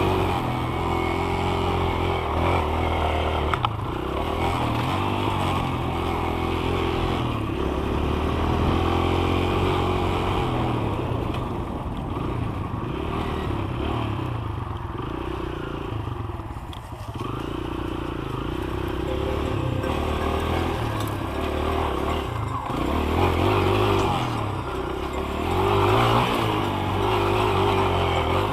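Dirt bike engine revving up and dropping back over and over as the rider accelerates, shifts and backs off, with wind rushing past the helmet microphone.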